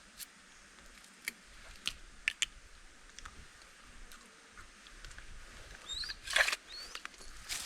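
Scattered light clicks and taps, then a louder rustle about six seconds in, with a few short high chirps around it.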